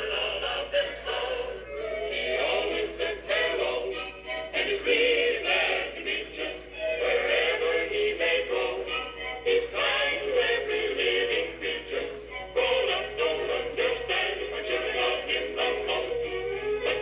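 Animated Casper mummy plush toy playing its built-in song: a sung tune over music, with little bass.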